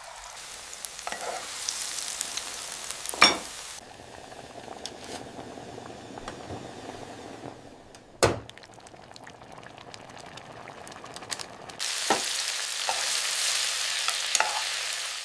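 Food sizzling in a hot pan, the hiss swelling and dropping back in stretches, with two sharp knocks of a utensil against the pan, about three and eight seconds in.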